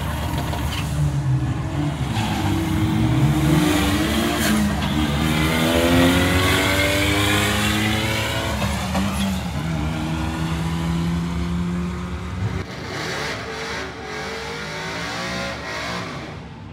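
Turbocharged 4G63 inline-four of a drag-raced Dodge Colt launching hard and accelerating down the strip. The engine note climbs steeply in pitch through the gears, breaks for a shift about halfway through, climbs again, then fades as the car pulls away.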